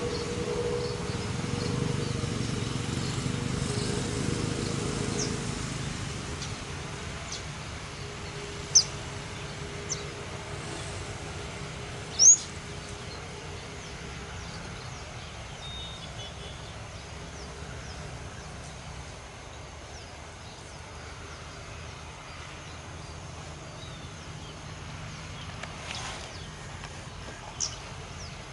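Outdoor background noise: a distant engine rumble with a steady hum fades away over the first six seconds, then a few short, high bird chirps ring out, the loudest about twelve seconds in.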